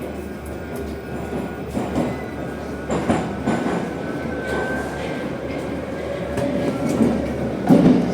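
Metro train running through the tunnel, heard from inside the car: a steady rumble that slowly grows louder, with wheel clacks over rail joints and a louder clatter near the end.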